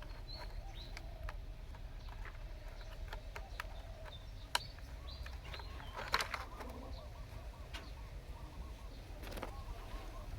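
Birds chirping in short calls, with scattered sharp clicks and a steady low rumble underneath.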